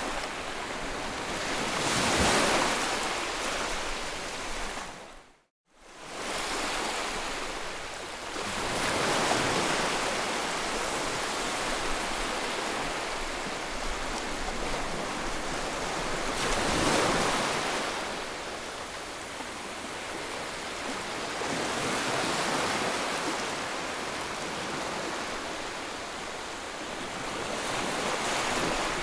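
Ocean surf: waves breaking and washing in, swelling and fading every several seconds. The sound drops out briefly to silence about five and a half seconds in.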